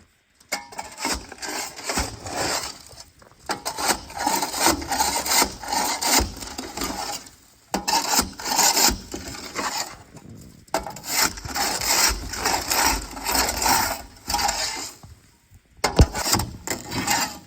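Rasping scraping in repeated strokes, with short pauses and a few sharp knocks, as sand frozen solid in a dump bed is worked loose.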